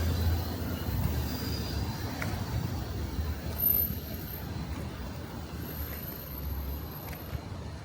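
Steady low rumble of city street traffic, with a brief high squeal about halfway through.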